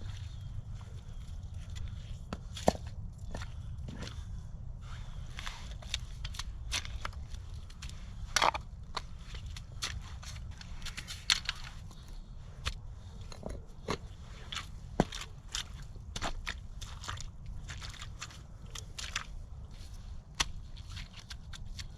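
Irregular knocks, clicks and crunches of broken concrete pieces being handled and set into wet, muddy ground to build a fire pit, over a steady low rumble.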